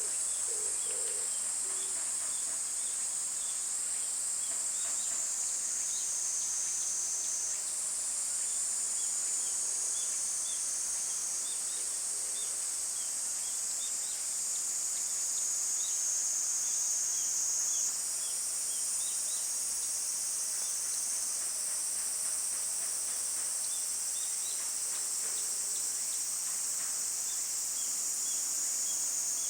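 Cicadas singing in a continuous high-pitched chorus that shifts slightly in pitch every few seconds, with faint short chirps beneath it.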